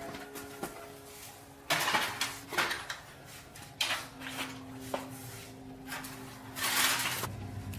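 Irregular clinks, knocks and scrapes of hard objects being handled, with several short rasping bursts; the longest and loudest comes near the end. A faint steady hum runs underneath.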